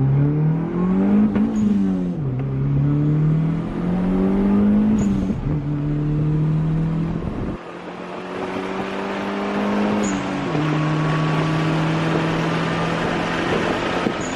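Turbocharged 1.5-litre Honda D15B four-cylinder accelerating hard through the gears. Its pitch climbs, then drops at each of four upshifts, and wind and road noise build as speed nears 100 mph.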